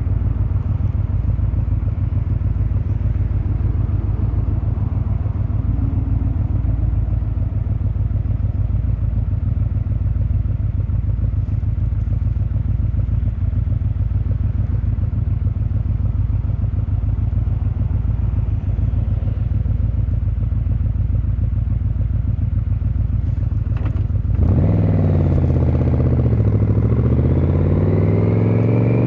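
Yamaha XVZ1300 Royal Star's V4 engine and exhaust running at low, steady revs with an even beat. About 24 seconds in it grows louder as the motorcycle pulls away, its pitch dipping and then climbing as it accelerates.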